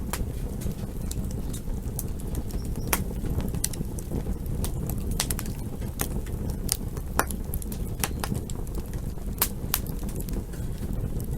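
Campfire crackling: irregular sharp pops and snaps over a steady low rush of burning flames.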